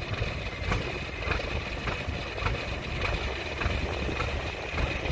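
Combine harvester's diesel engine running steadily with a low rumble and a thin high whine, with a sharp tick repeating about every half second or so.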